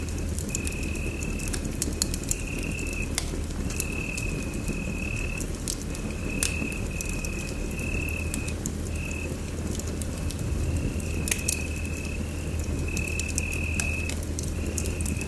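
Wood fire in a fireplace crackling, with scattered sharp pops over a low steady rumble. A high chirping tone also repeats in short bursts about once a second.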